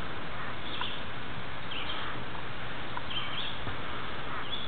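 Birds chirping briefly, about once a second, over a steady outdoor background hiss.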